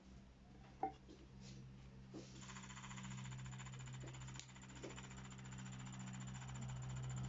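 A 3D pen's small filament-feed motor buzzing faintly and steadily, starting about two seconds in, with a few light clicks and taps of handling.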